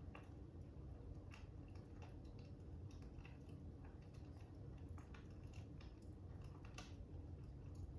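Fire crackling faintly: irregular small pops and snaps over a steady low rumble.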